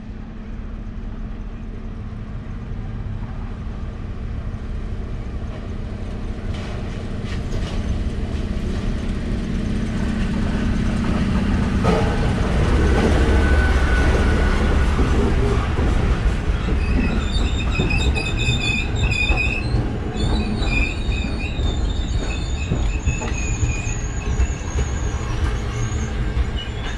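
SU42 diesel locomotive hauling a passenger train into a station: its engine hum grows louder as it approaches and is loudest as it passes about twelve seconds in. Then the coaches roll past slowing, with high steady squeals from the wheels and brakes.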